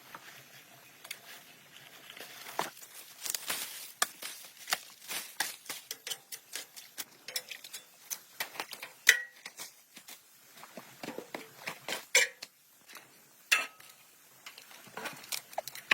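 Irregular light clicks, taps and clinks of small hard objects being handled, several a second. Sharper knocks come about nine and twelve seconds in.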